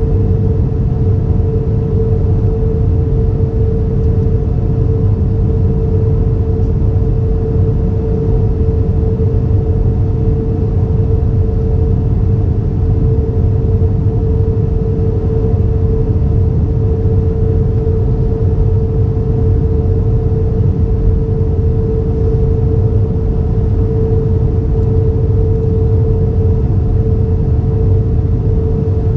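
Airbus A320 cabin noise with the engines running: a steady rumble and rush of air with a steady mid-pitched hum over it.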